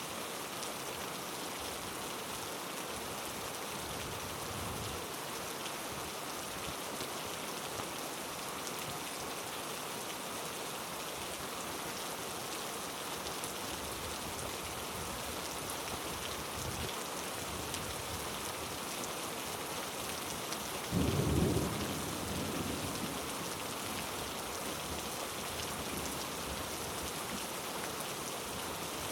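Heavy rain falling steadily, with one short, low rumble of thunder about twenty seconds in.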